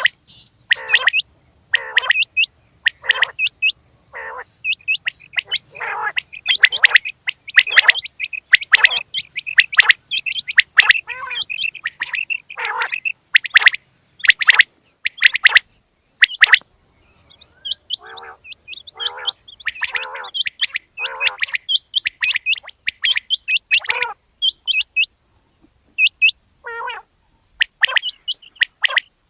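Quail calling: a long series of short, sharp chirping calls, one or two a second, some with a lower note beneath, with a couple of brief pauses.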